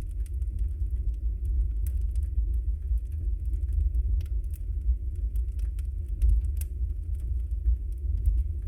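Wood fire burning in a fireplace: a steady low rumble from the flames, with scattered sharp crackles and a few louder pops, near two, four and six and a half seconds in.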